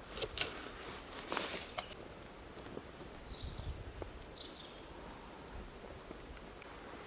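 A few sharp knocks in the first two seconds over quiet outdoor ambience, then faint short high chirps around the middle.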